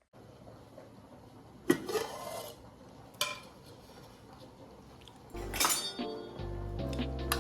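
Metal kitchen dishes and utensils clink and clatter a few times, loudest about two seconds in. Background music comes in near the end.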